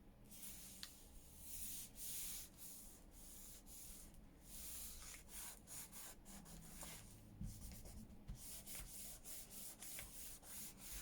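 Paper edges being inked by hand: an ink applicator rubbed along the paper in quick, uneven scratchy strokes, faint.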